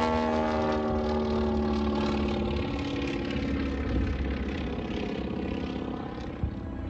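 Propeller airplane engine passing overhead, its drone falling slightly in pitch and fading away over a steady low rumble.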